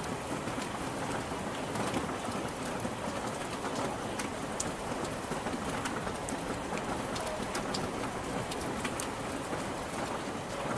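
Steady rain falling, with many individual drops ticking sharply on a hard surface over a constant hiss.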